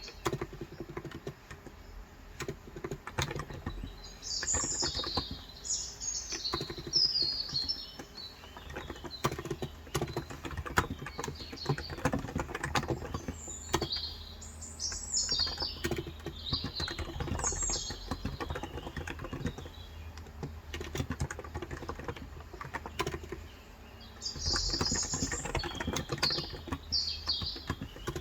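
Continuous typing on a Cox Endeavor electrostatic capacitive (35 g) tenkeyless keyboard, a dense run of soft keystroke clicks. Birds chirp over it in three spells of several seconds each.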